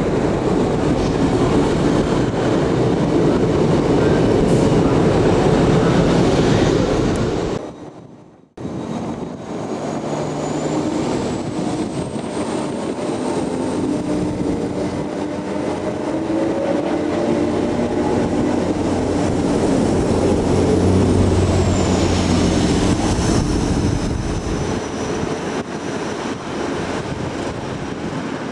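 A diesel multiple unit running along the platform, its engine and wheels giving a dense rumble that cuts off abruptly about 8 s in. After that, train engines run steadily, and a high whine rises about 12 s in, holds, and falls away about 21 s in.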